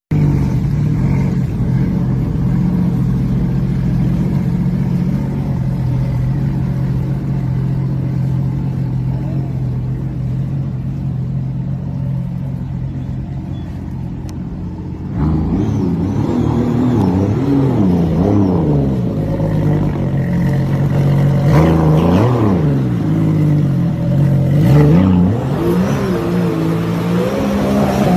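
Amphibious sports car's engine running at a steady low speed, then about halfway through getting louder and revving repeatedly, its pitch rising and falling several times as the car powers away across the water.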